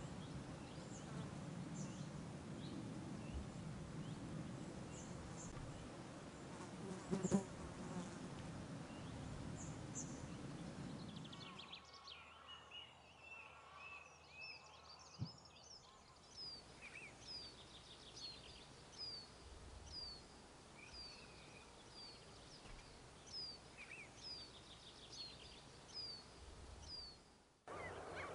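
Insects buzzing, with small birds chirping high above the buzz. About halfway through, the buzz stops and a bird sings a short high falling note, repeated roughly once a second.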